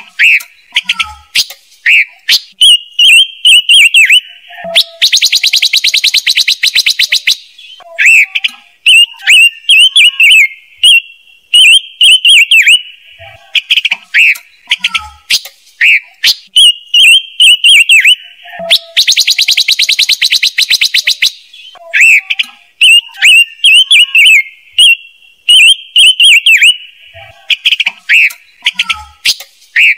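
Looped recording of the calls of the songbird sold as chim ngũ sắc, used as a trapping lure: quick, sharp, repeated whistled notes, broken twice by a long, fast rattling trill about fourteen seconds apart.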